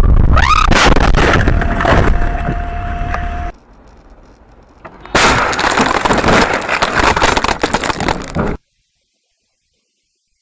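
Dash-camera audio of a car crash: loud rumbling road noise with sharp impact strokes under a second in, then a steady tone. After a brief drop, a second stretch of loud crackling, crunching impact noise cuts off abruptly about eight and a half seconds in.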